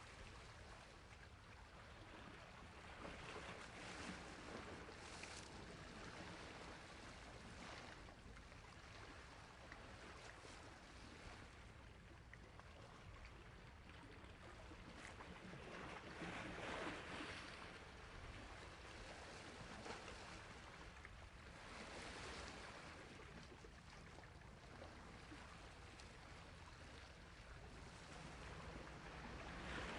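Sea waves washing onto a shore: a faint, steady rush that swells every few seconds, loudest about halfway through.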